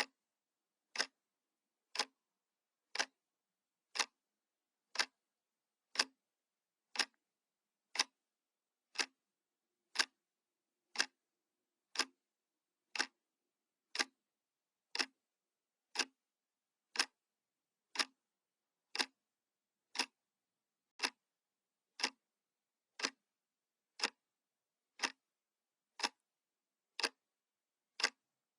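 Analog clock ticking once a second, each tick a single sharp click with silence between.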